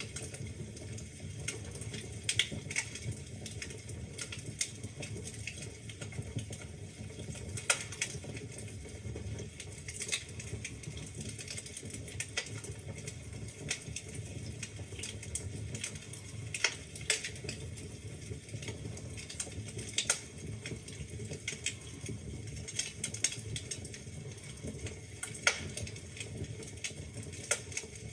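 Wood fire crackling in a fireplace: irregular sharp pops and snaps, a few louder than the rest, over a steady low rush of burning.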